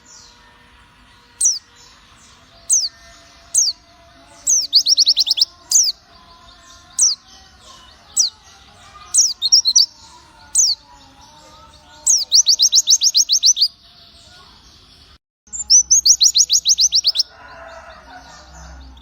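White-eye (Zosterops) singing: sharp, high, down-slurred whistled notes about once a second, broken three times by rapid trills of quick repeated notes.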